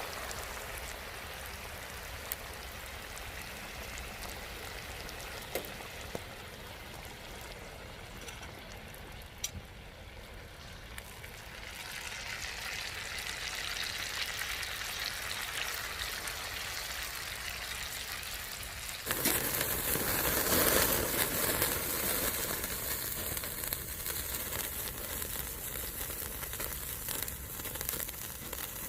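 Food sizzling as it fries: a steady hiss with a few sharp pops. About two-thirds of the way through it suddenly gets much louder.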